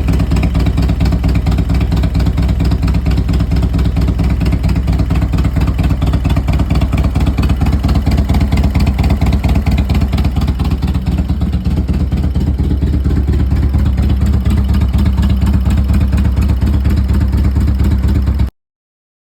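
Harley-Davidson Evolution V-twin engine of a 1998 Road Glide running steadily, with rapid, even exhaust pulses. It is heard through a two-into-one Thunderheader exhaust.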